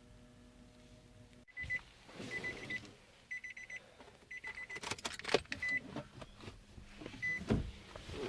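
A faint hum, then from about a second and a half in a run of short, high electronic beeps at irregular spacing, some in quick trills, mixed with clicks and knocks.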